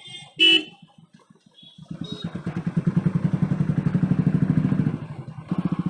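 Royal Enfield Bullet's single-cylinder motorcycle engine picks up about two seconds in and runs with an even, pulsing beat, dipping briefly near the end. A short sharp clack comes about half a second in.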